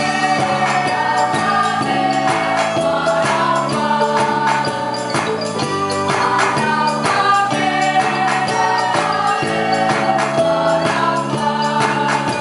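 A choir singing in harmony with instrumental accompaniment and a steady beat.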